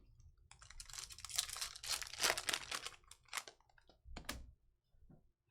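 Trading cards and their foil pack wrappers being handled: a stretch of dense crinkling and rustling, followed by a few sharp clicks.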